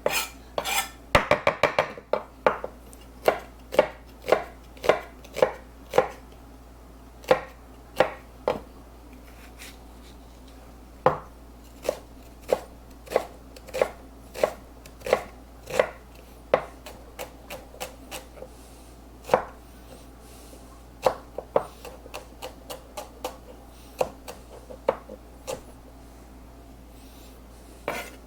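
Knife chopping vegetables on a cutting board: a quick run of strokes about a second in, then single chops roughly one to two a second, with a few short pauses.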